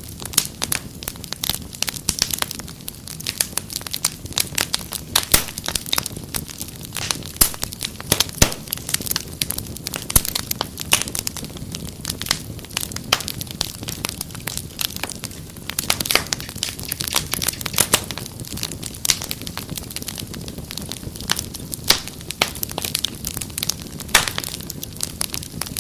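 Wood fire crackling steadily: a dense, irregular run of sharp pops and snaps over a low, steady rumble of flames.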